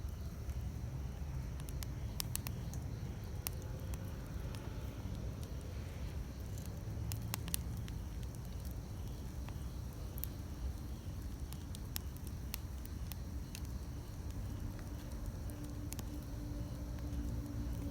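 Wood campfire crackling, with scattered sharp pops and snaps over a steady low rumble. From about fourteen seconds in, a faint steady pitched hum joins it.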